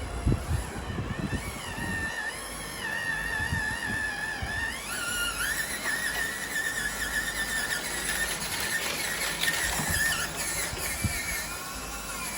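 Small electric motor and gearbox of a radio-controlled car whining, the high whine wavering and shifting in pitch with the throttle. There are a few low knocks in the first couple of seconds.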